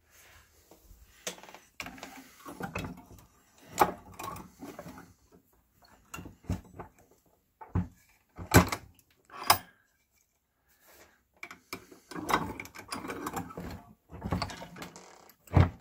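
Metal oven-door hinge parts being handled and worked by hand: irregular sharp clicks and clanks with short stretches of scraping and rubbing.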